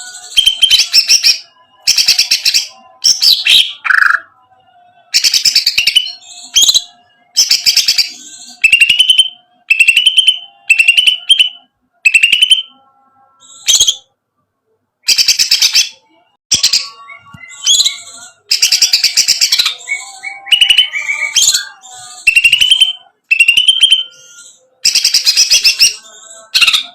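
Cucak ijo (green leafbird) singing loudly in repeated bursts of fast rattling, ticking chatter. Many bursts end in a short falling whistle, and brief pauses come between them.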